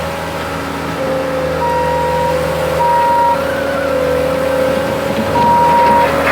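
Construction machinery running steadily at work compacting fill, with a backup alarm beeping three short times as a machine reverses.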